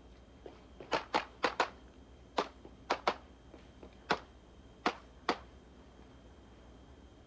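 Pistol shots, about ten sharp reports, several fired in quick pairs and the rest singly, spread over about four and a half seconds.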